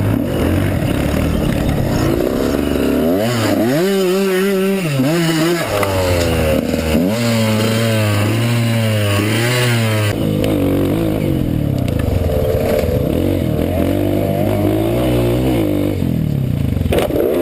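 Dirt bike engine revving up and down as the bike is ridden, its pitch rising and falling again and again over steady riding noise.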